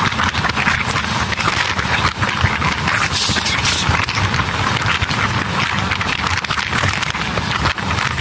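LHB passenger coach running at speed, its wheels clattering steadily over the rails, with air rushing past the open side of the coach.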